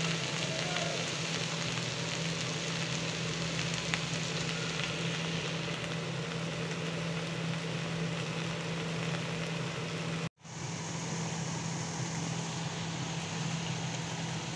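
Sliced okra and onions sizzling as they fry in oil in a pan: a steady hiss over a low, constant hum. The sound cuts out for a moment about ten seconds in, then the hiss resumes.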